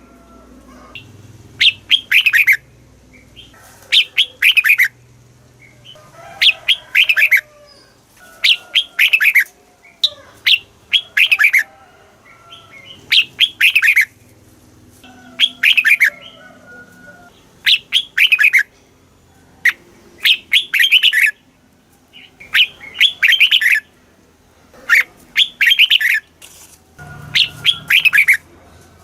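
Red-whiskered bulbul singing: short phrases of quick, falling whistled notes, repeated about every two seconds.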